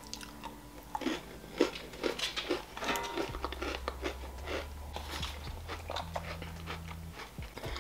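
Close-miked crunching and chewing of an Oreo cookie, with irregular crisp crackles as it is bitten and broken down in the mouth.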